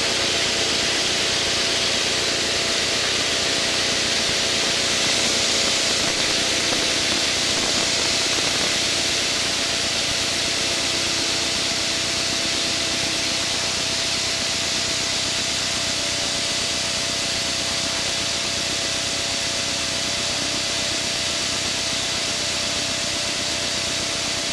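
Steady engine drone and rushing airflow inside a small aircraft's cockpit in flight, with a few faint steady hums under the hiss, easing slightly toward the end.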